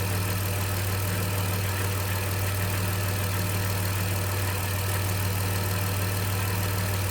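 Dodge Grand Caravan's 3.3-litre V6 idling steadily.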